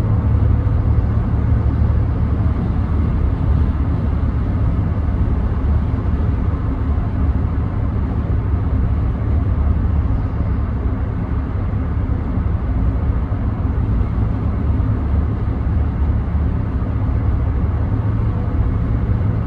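Steady in-cab drone of a 2014 Ram 1500 pickup with the 5.7 Hemi V8 under way: low engine hum mixed with tyre and road noise.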